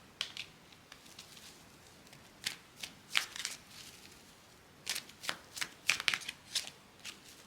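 Tarot cards being shuffled by hand: quick crisp card flutters come in three short spells, with pauses between them.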